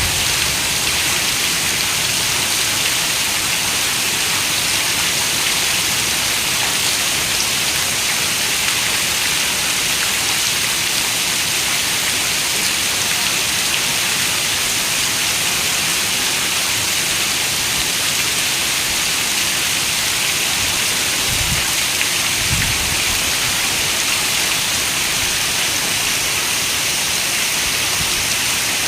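Steady rain falling in an even, constant hiss, with a couple of brief low rumbles about two-thirds of the way through.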